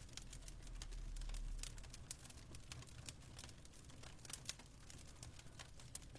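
Fireplace crackling: many irregular sharp pops and clicks of varying strength, with a brief low rumble about a second in.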